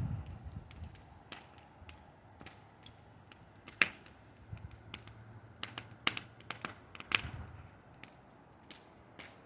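Bonfire crackling: irregular sharp pops and snaps, the loudest about four, six and seven seconds in.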